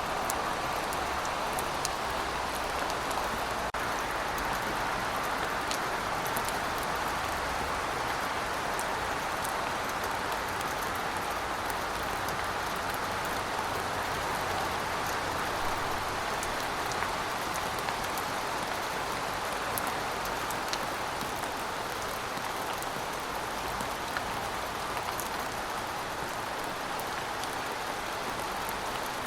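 Steady rainfall: an even hiss of rain with scattered faint drop ticks, with no change in intensity throughout.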